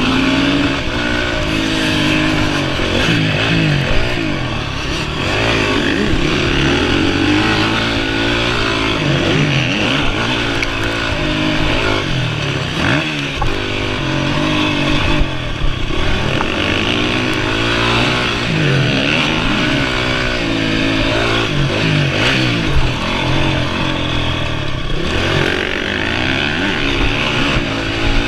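Honda CRF450R motocross bike's four-stroke single-cylinder engine being ridden hard, its pitch rising and falling again and again as the throttle is opened and closed.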